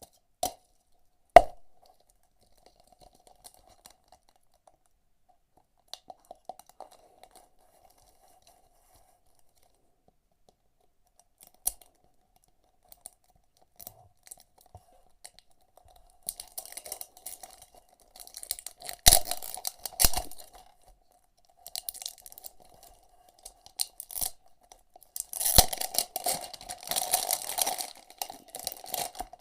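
Packaging handled and torn open: a couple of sharp knocks at the start, scattered small ticks, then bursts of crinkling and tearing from about halfway, with two thumps, growing dense near the end. A faint steady hum runs underneath.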